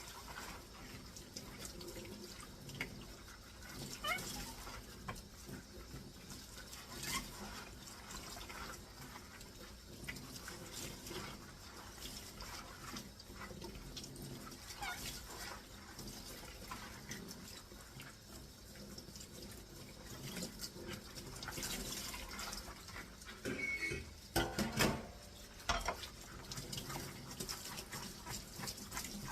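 Dishes being washed by hand in a kitchen sink: water splashing and running, with dishes and utensils knocking and clinking now and then, and a louder clatter a little before the end.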